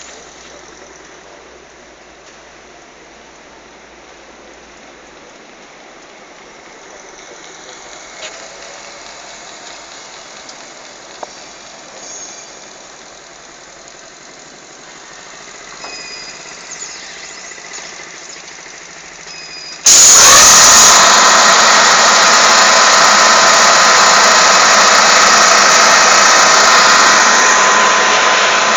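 Quiet workshop background with a few short clicks, then a loud, steady machine noise that starts suddenly about two-thirds of the way through and keeps going.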